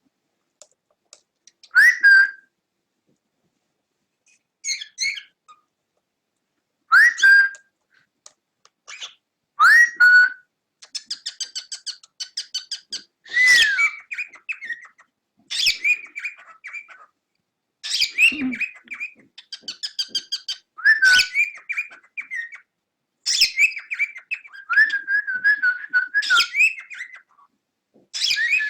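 Cockatiel whistling and warbling: short rising whistles a few seconds apart, then from about ten seconds in a busier run of chattering warbles mixed with whistles.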